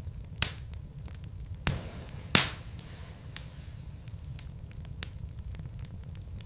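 Wood logs burning in a fireplace, crackling with scattered sharp pops over a low steady rumble of the flames. Three louder pops come in the first half; the loudest is about two and a half seconds in.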